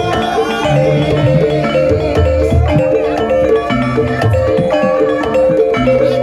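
Gamelan-style music accompanying an ebeg (kuda lumping) dance: mallet-struck keyed instruments play a running melody of short notes over low drum strokes and percussion, at a steady loud level.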